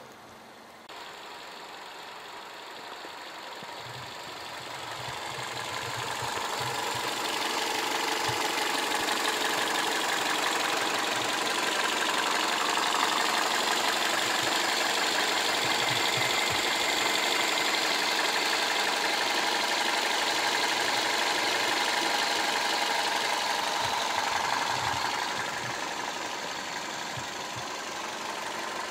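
The 2005 Toyota Corolla's 1.6-litre 3ZZ-FE inline-four running steadily at idle. It grows louder over the first several seconds and eases off somewhat near the end.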